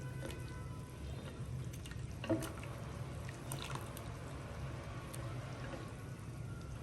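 Liquid being poured and dripping during cooking, with a single knock of a utensil or pot about two seconds in, over a low steady hum.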